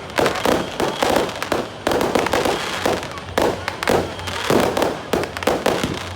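Fireworks going off in a rapid, unbroken string of bangs, several a second.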